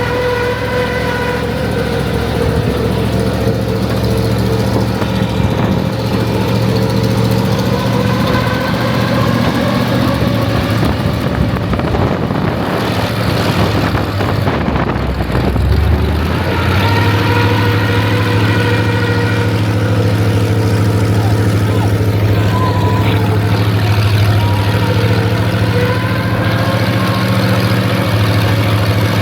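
Monster truck's engine running with a steady low drone; around twelve seconds in it turns rough and noisy for a few seconds, then settles into a steady, slightly higher note.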